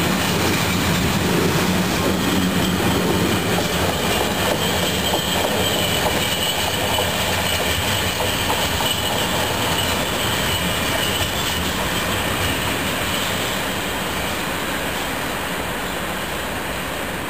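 Freight train of open wagons rolling past close by and drawing away around a curve, wheels rumbling on the rails. A faint high steady squeal from the wheels on the curve runs through the middle, and the sound slowly fades near the end.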